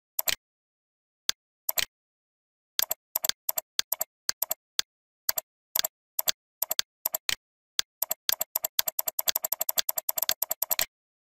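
Computer mouse clicking: single sharp clicks about half a second to a second apart, then a rapid flurry of clicks for about three seconds near the end.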